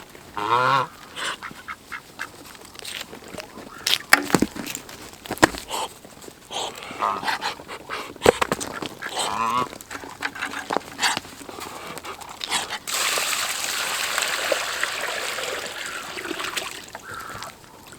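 Domestic ducks and geese calling in short honks and quacks, among scattered sharp knocks and clicks. Near the end a loud, steady rushing noise runs for about four seconds.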